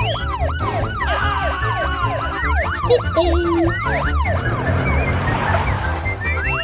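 Police siren in fast yelp mode, rising and falling about two and a half times a second, over a background music track. The yelp breaks up after about four seconds, leaving a few scattered glides.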